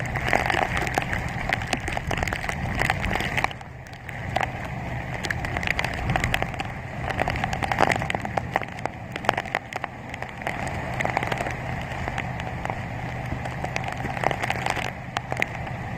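Typhoon wind and heavy rain, a dense, steady wash of noise with many small ticks of rain striking hard surfaces and a low steady hum beneath.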